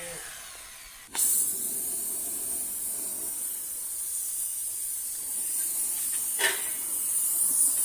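A steady hiss that switches on abruptly about a second in and keeps going, with one short knock around six and a half seconds.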